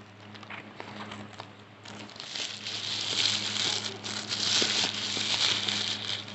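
Parcel packaging being opened by hand: light clicks and rustles at first, then from about two seconds in a louder, continuous crinkling and tearing of the wrapping.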